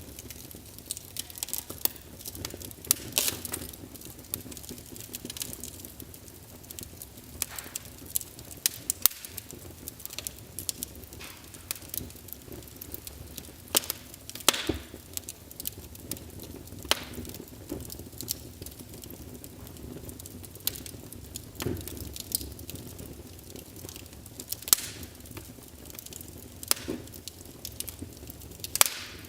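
Wood fire burning in a fireplace: a low steady rumble of flames with irregular sharp crackles and pops, a few louder snaps spread through.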